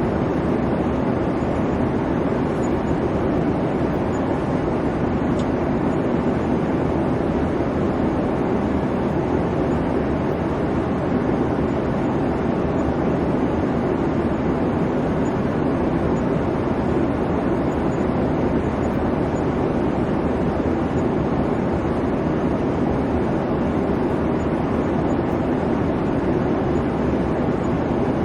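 Steady airplane cabin noise in flight: an even rumble and hum of the engines and airflow, unchanging throughout.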